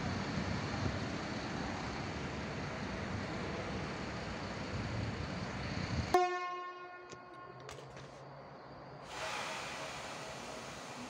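A passenger train running out of the station with a steady rushing noise. About six seconds in, after a cut, a short train horn sounds and fades, then the steady running noise of an ET22 electric locomotive's blowers and motors comes in near the end.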